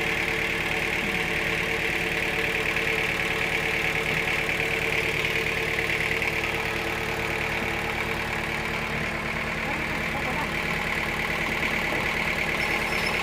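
Sawmill running steadily: an engine's even low hum under a bright, high whine from the saw, swelling slightly midway.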